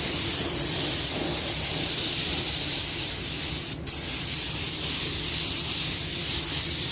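Compressed-air automotive paint spray gun hissing steadily as a second coat of paint is laid on to blend a car door, with one brief break about halfway through.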